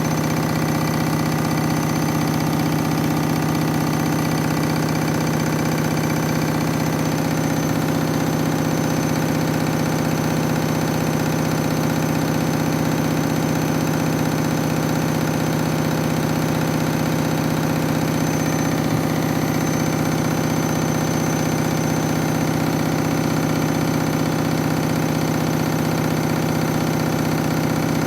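Washing machine spinning a badly unbalanced load of towels, its motor and drum giving a loud, steady hum with a constant whine. The load is far out of balance.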